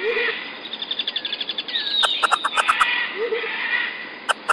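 Bird-like chirping and whistling: a fast trill about a second in, falling whistled notes, then quick runs of short sharp chirps in the second half.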